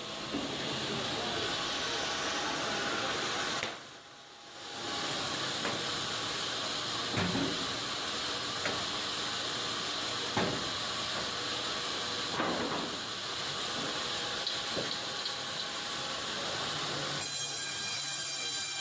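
Bandsaw mill running: a steady hissing noise of the band blade and machinery, with a few scattered knocks. It drops away briefly about four seconds in. Near the end the sound shifts to a noise with several steady high tones.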